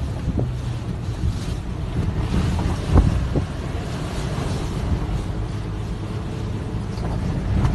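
Gale-force wind buffeting the microphone: a steady low rumble with rushing noise, and a short thump about three seconds in.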